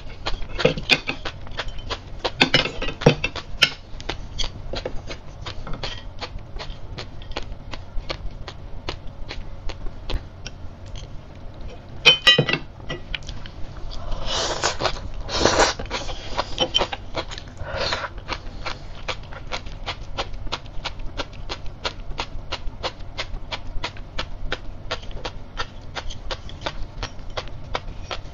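Close-up chewing of crisp sea grapes: a steady run of small pops, about three a second, as the beads burst in the mouth. About halfway a fresh mouthful goes in with a louder, noisier stretch, just after a brief clink.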